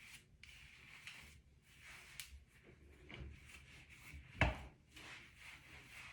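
Soft, irregular rubbing and rustling of the wig's hair being handled and styled, with one sharp knock about four and a half seconds in.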